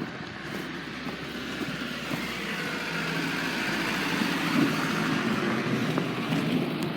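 A road vehicle passing on a snowy street: tyre and engine noise swelling over a few seconds, then easing off.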